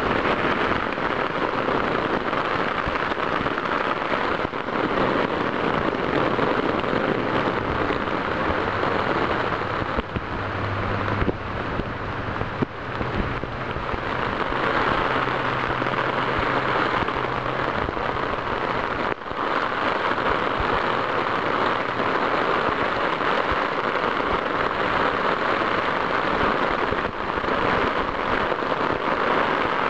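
Heavy rain falling steadily, heard from inside a plastic waterproof camera bag.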